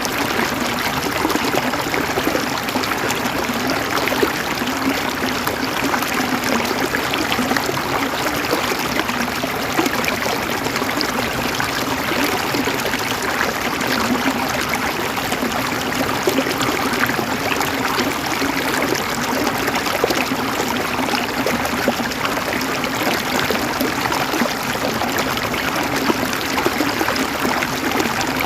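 River water flowing and gurgling over rocks, a steady rushing with constant small splashes.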